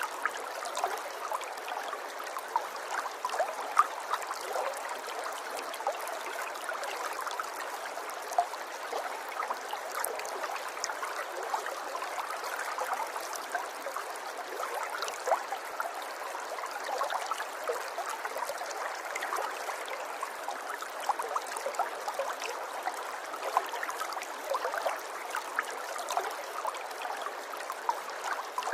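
River water flowing steadily: a continuous babble with many small gurgles and splashes.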